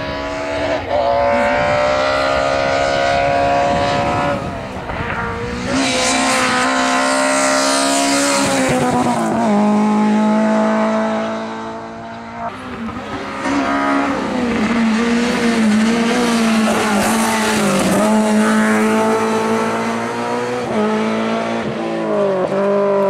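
Lada race car's four-cylinder engine revving hard under full throttle, its pitch climbing through each gear and dropping back at the shifts, several times over.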